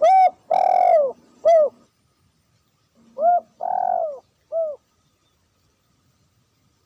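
Dove cooing: two three-note phrases, a short note, a longer drawn-out note and a short note, the second phrase about three seconds after the first.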